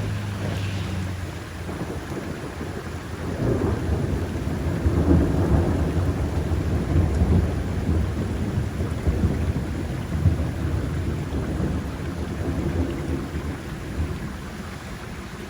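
Thunder rolling over steady rain in a summer thunderstorm. A long low rumble builds about three seconds in, is loudest through the middle and eases off near the end.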